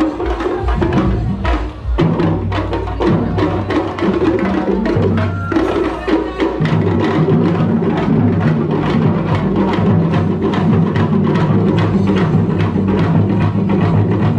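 Live band playing loud music driven by fast, busy drumming, with a steady low bass line under the beat.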